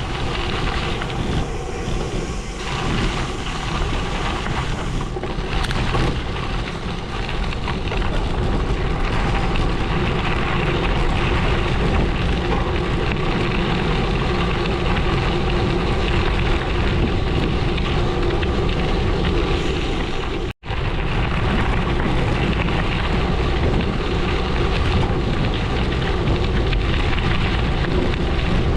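Gravel bike tyres rolling over a gravel road, a steady crunching hiss, mixed with wind rushing over the microphone. The sound drops out for an instant about two-thirds of the way through.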